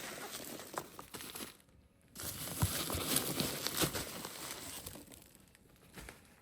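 Packaging rustling and crinkling as perfume bottles in their pouches are handled and unpacked, with a few light knocks. It stops briefly just before the two-second mark, then picks up louder before tapering off.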